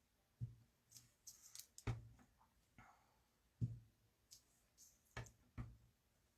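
Rubber stamp being tapped onto an ink pad and pressed down onto card stock on a tabletop: five soft thumps spread a second or so apart, with light clicks between.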